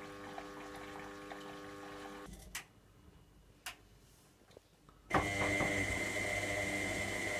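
Electra AWF683 washing machine: a steady machine hum cuts off, two sharp clicks follow, then a louder steady hiss with a high whine starts suddenly, typical of the water inlet valve opening to fill the drum through the detergent drawer.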